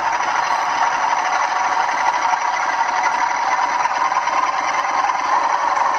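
Model locomotive sound decoder playing a Class 37 diesel engine sound through two small iPhone speakers wired in series, running steadily with the loco at low speed. The sound is thin and tinny, with almost no bass.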